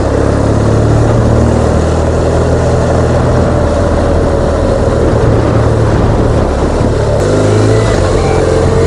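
BMW R1200GS boxer-twin engine running under way, heard from the rider's helmet with wind rushing past the microphone. About seven seconds in, the engine note and wind noise shift.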